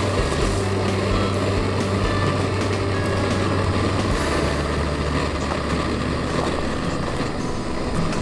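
A motor vehicle's engine running steadily under a constant rushing noise, its low hum dropping in pitch about four seconds in.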